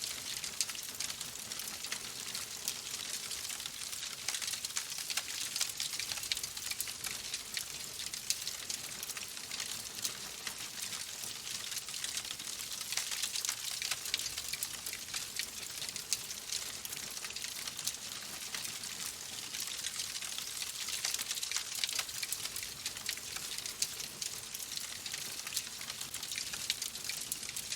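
Fireplace fire crackling steadily, with a dense scatter of small pops and snaps over a soft hiss.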